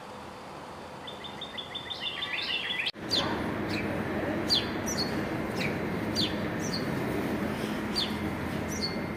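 Small songbirds calling: first a quick stepped trill, then, after a sudden cut, short falling chirps repeated about every half second over a steady background hiss.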